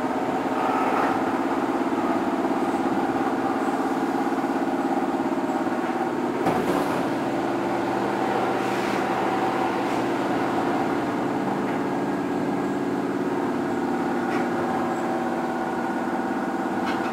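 Steady hum inside a Keihan 2600 series electric commuter train car, several constant tones held without rising or falling, with one brief knock about six and a half seconds in.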